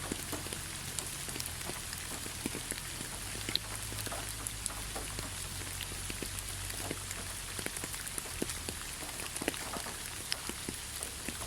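Steady rain falling, with a constant hiss and many separate drops ticking on a surface.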